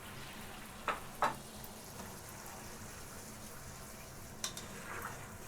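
Chicken and potato masala sizzling in a pan as it is stirred and sautéed, with a spoon knocking against the pan twice about a second in and once more near the end.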